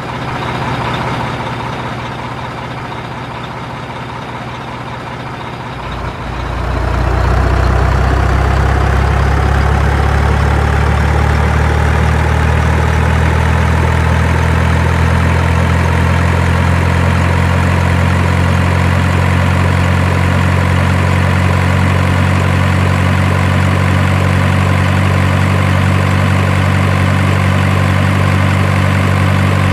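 Large engine running steadily at idle. It becomes louder about six seconds in, with a faint whine that slowly rises in pitch.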